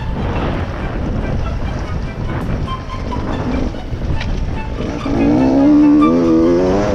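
Beta 125 RR two-stroke dirt bike engine running under a rush of wind noise, then revving hard for the last two seconds with a rising, wavering tone.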